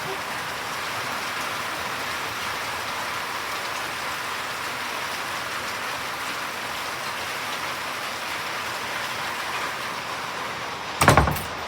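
Steady heavy rain falling and pattering on a surface. Near the end, two loud sharp knocks in quick succession.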